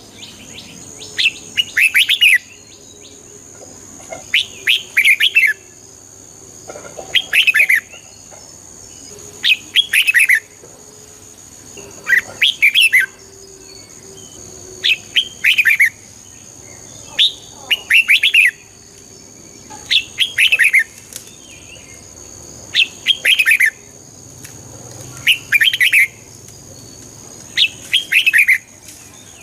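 Red-whiskered bulbul singing: short, bright, warbling song phrases repeated about every two and a half seconds.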